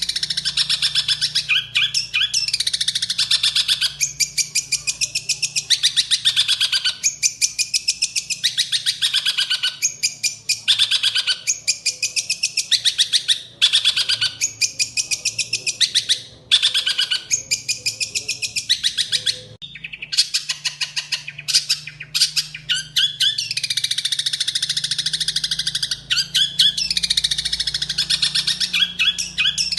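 Songbird singing a fast, chattering song of rapid repeated notes in phrases a second or two long, with brief pauses between them.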